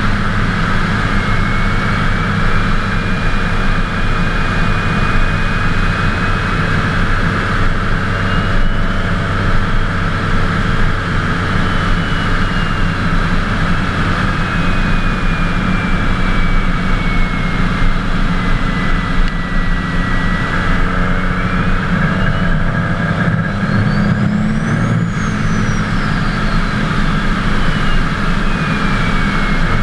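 Twin-turbocharged 24-valve Cummins inline-six diesel running under way, with a turbo whistle over it that rises and falls slowly, then climbs steeply to a high whine about 25 seconds in and falls away again.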